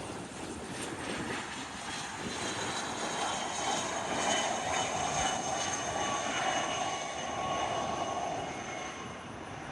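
Private jet's engines running, a high whine over a broad rush that grows louder toward the middle and then eases off.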